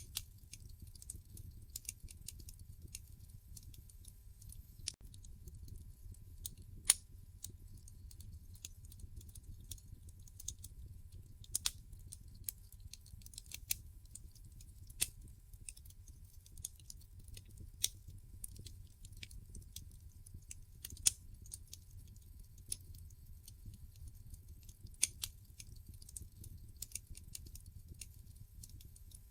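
Wood fire in a fireplace crackling: irregular sharp snaps and pops, a few of them louder, over a faint low rumble of the flames.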